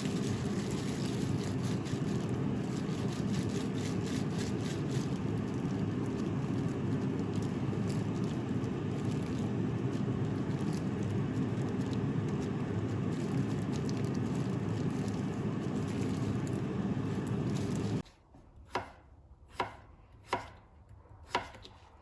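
A loud, steady low rushing noise that cuts off suddenly near the end. Then four sharp knocks about a second apart: a knife chopping on a cutting board.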